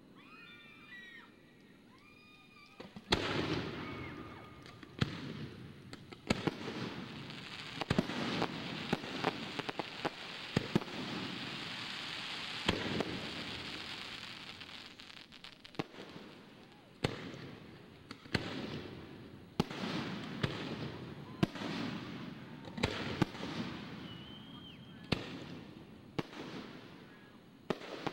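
Aerial fireworks display: a long run of sharp shell bursts, with a stretch of dense crackling through the middle.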